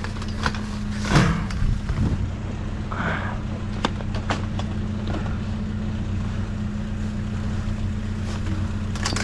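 Steady low engine hum of an idling vehicle, with a few scattered knocks and clatters.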